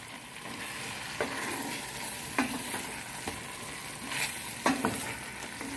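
Chicken pieces frying with onion, tomato and spices, sizzling in a stainless steel pot while a wooden spoon stirs them, with several brief knocks and scrapes of the spoon against the pot.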